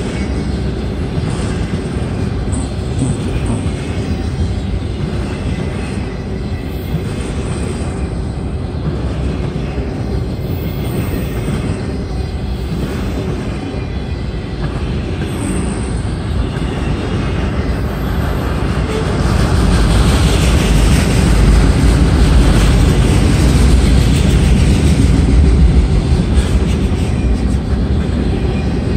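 Long freight train's cars rolling past on the rails, empty autorack cars followed by covered hoppers: a steady rumble of wheels on track that grows louder about two-thirds of the way through.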